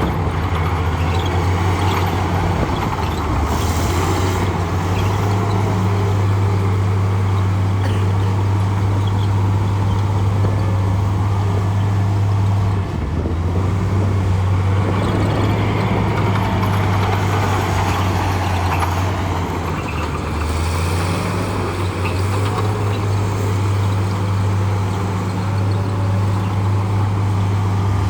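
Bulldozer's heavy diesel engine running steadily at work, a loud low drone that dips briefly twice.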